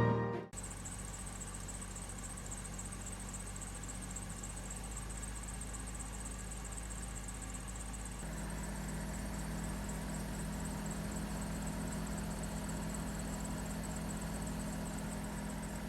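BMW E39 engine running, with a fast, steady high-pitched chirping squeal from the worn bearing of the air-conditioning belt tensioner. The engine's tone steps up slightly about halfway through.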